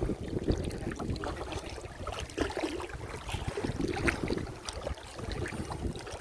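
Water sloshing and splashing in irregular bursts, with wind buffeting the microphone.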